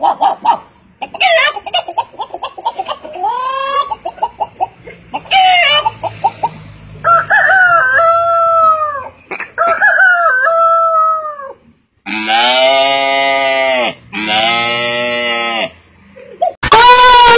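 A man imitating a chicken with his voice: quick runs of clucking, then several drawn-out crowing calls that fall in pitch at the end, and finally two long calls of about a second and a half each.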